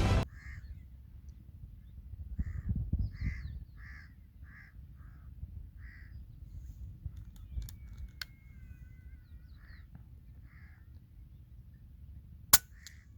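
Crows cawing repeatedly, a dozen or so short calls, over gusty wind rumble on the microphone. Near the end comes a single sharp crack, the loudest sound: a shot from a PCP air rifle.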